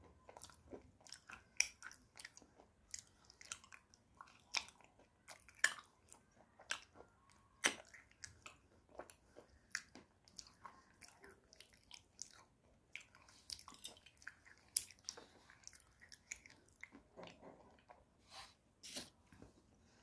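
Close-miked chewing and crunching of a hard white clay bar, with irregular sharp crunches every second or so and softer grinding between bites.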